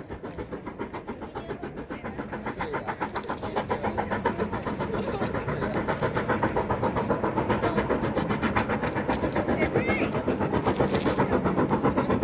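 Steam train chuffing in a fast, even rhythm of about four beats a second, growing steadily louder as it approaches.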